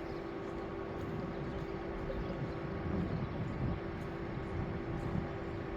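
Steady vehicle running noise: a low rumble with a constant hum.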